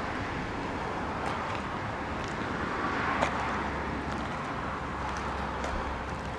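Freight train rolling slowly through the station yard: a steady rumble of wagons on the rails with a faint steady tone, and one sharp click about three seconds in.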